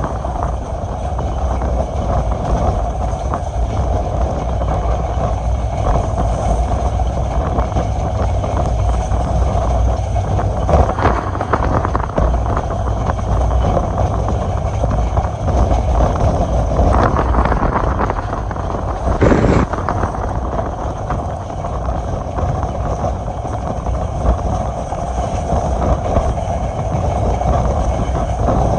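Moving passenger train: a steady rumble of wheels on the track, with wind on the microphone. A brief sharper noise comes about 19 seconds in.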